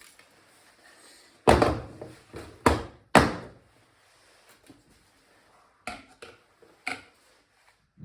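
Kitchen handling noises: three loud thunks in quick succession about a second and a half in, followed by a few lighter clicks and knocks later on.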